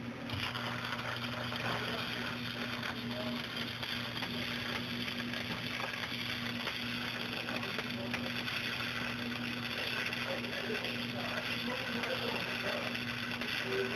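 Electric arc welding: a steady crackling arc over a constant electrical hum as a bead is run without a break.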